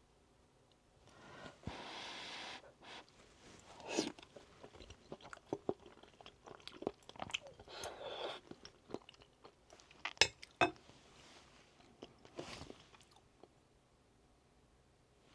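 Close-up eating sounds: crunchy bites and chewing, in scattered bursts with a few sharp clicks.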